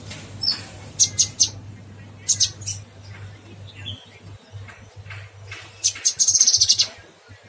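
A cucak kinoy songbird singing: short bursts of high chirps about a second in and again just past two seconds, then a fast, high trill near the end. A steady low hum runs underneath.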